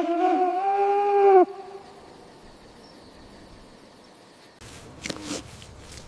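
An animal call: one long, steady pitched call that stops about a second and a half in. A few seconds later a rougher, noisy animal sound begins, with a short lower call in it.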